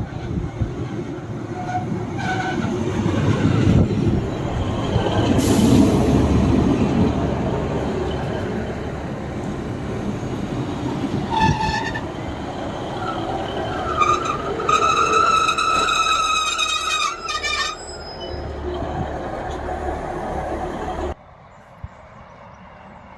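Diesel passenger train running past with a heavy, steady rumble of engine and wheels on the track. A short horn toot sounds about 11 seconds in, then a longer horn blast lasting about three and a half seconds. The sound drops off abruptly near the end.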